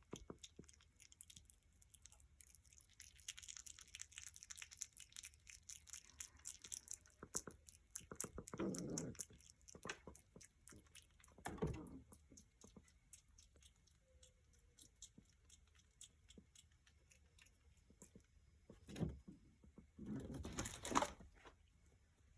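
A hyrax chewing banana: fast, fine, wet smacking clicks. Four louder, noisier rustles stand out, about 9, 12, 19 and 21 seconds in.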